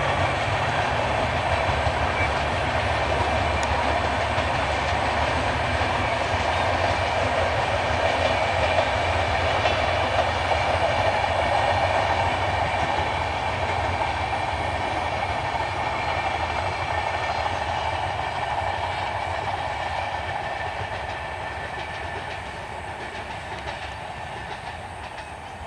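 Rajdhani Express passenger coaches rolling past on the rails, with a steady rumble and wheel clatter. Over the last ten seconds it fades steadily as the train draws away.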